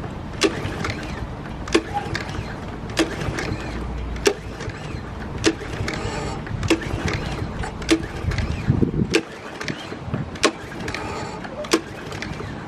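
Gas lawn mower being pull-started again and again without catching, with a sharp click from the recoil starter about every second and a quarter. The engine won't start, which she puts down to having no starter fluid.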